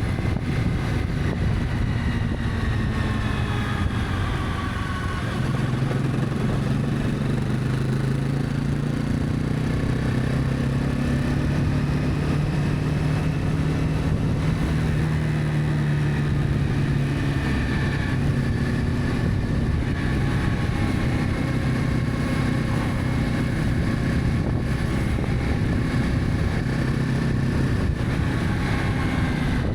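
Honda CB300F motorcycle engine running while riding, its pitch falling over the first few seconds, then running steadier and stronger from about five seconds in, with gentle rises and falls as speed changes. Wind and road noise run underneath.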